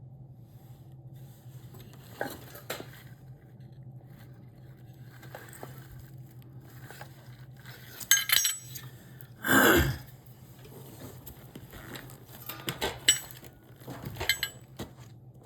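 Metal tools clinking and knocking together, with a bright ringing clink about eight seconds in, a short loud scrape just before ten seconds, and more clinks near the end, over a steady low hum.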